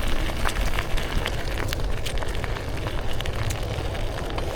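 Wind buffeting the microphone and tyre rumble while a small mountain bike rides fast down a dirt trail, with scattered small clicks and rattles from the bike and trail.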